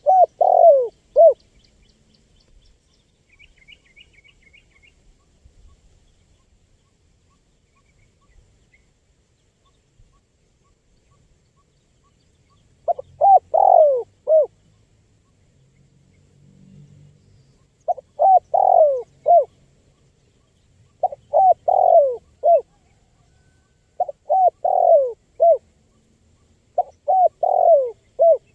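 Spotted dove (tekukur) cooing in short phrases of three or four notes each. One phrase comes at the start, then after a long pause five more follow about every three seconds. Faint high twittering of another small bird comes a few seconds in.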